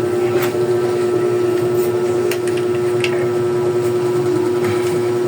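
A steady hum with a few light clicks and taps of tools on bicycle parts while a handlebar fitting is tightened.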